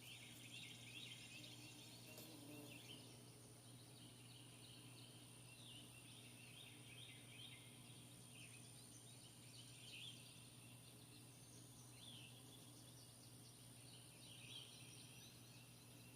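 Faint birds chirping and calling in short, repeated phrases, over a steady low hum.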